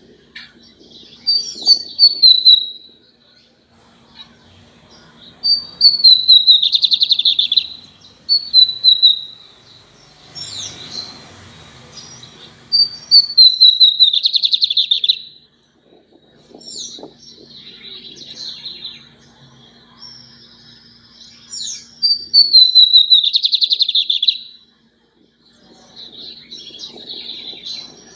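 Lined seedeater singing over and over: each phrase a run of clear descending whistled notes that breaks into a fast buzzy trill, the phrases a few seconds apart.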